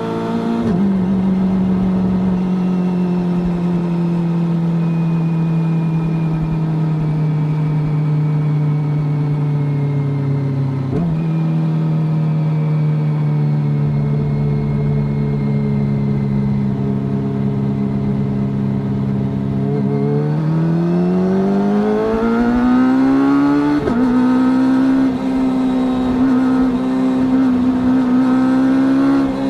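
Kawasaki ZX-25R's 250cc inline-four engine through an Akrapovič full-carbon racing exhaust, rolling off downhill. Its note falls slowly for about twenty seconds, with a short blip about eleven seconds in. Then it accelerates hard, the pitch climbing steeply, with a quick break for a gear change about twenty-four seconds in before it revs on upward.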